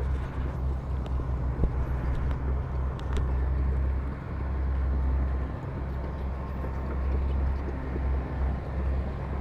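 Heavy diesel earthmoving machinery running with a steady low rumble that swells and eases, with one sharp click about one and a half seconds in.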